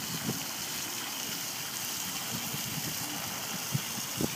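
Outdoor water fountain splashing steadily, an even rush of falling water.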